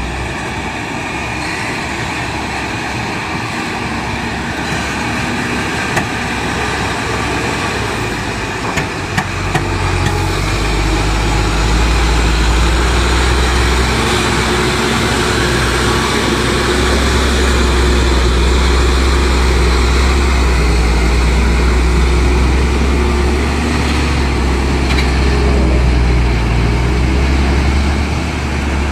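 Heavy truck engine running steadily, with a deep low rumble that grows louder about ten seconds in.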